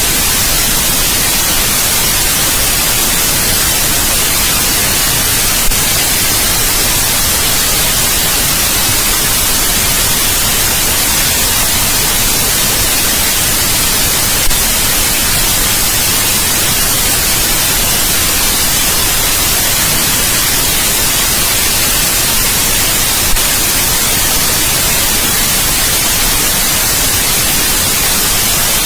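Steady, loud white noise: an even hiss with no tone or rhythm, heaviest in the highs, broken only by three faint clicks about nine seconds apart.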